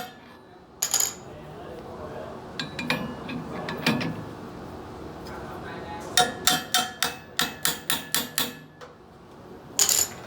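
A hammer striking metal with a ringing clang. About a second in there is a single blow, then some clatter, then a quick run of about nine strikes at roughly four a second from about six seconds in, and one more blow near the end.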